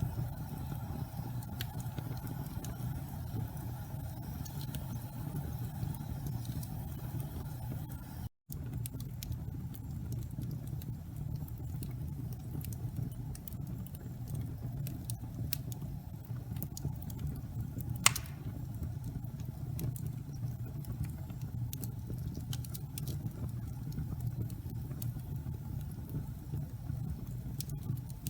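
Wood fire burning with a steady low rumble and scattered small crackles, and one sharp, loud pop about two-thirds of the way through. A split-second gap of silence falls a little under a third of the way in.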